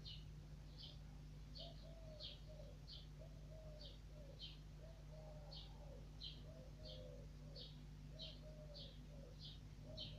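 Birds in a garden: a small bird repeats a short, high chirp about one and a half times a second. From about two seconds in, a dove coos low beneath it, over a faint steady hum.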